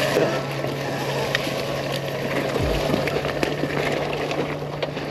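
Riding noise from a bike on a trail: wind on the microphone and rolling noise, with a steady low hum and a brief low thump about two and a half seconds in.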